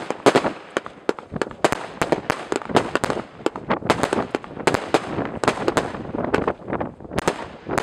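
Consumer aerial fireworks bursting: a dense, irregular run of sharp bangs and crackles, several a second, without a pause.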